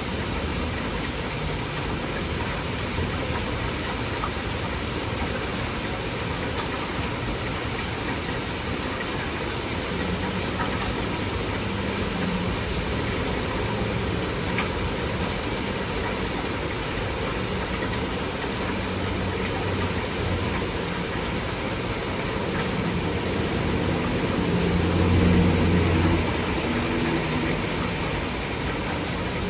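Heavy rain falling steadily, with a low motor hum underneath that grows louder for a couple of seconds near the end.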